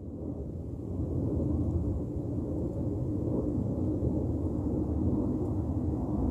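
Aircraft flying over: a low, steady engine rumble that builds over the first second and then holds.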